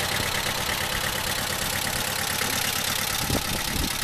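Ride-on tractor running with a steady mechanical drone, with a couple of brief bumps near the end.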